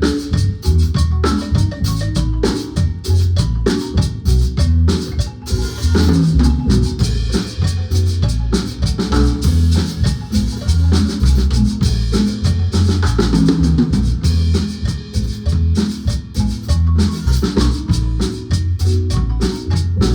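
Guatemalan marimba band playing a song with drum kit and strong bass, many quick mallet notes over a steady beat.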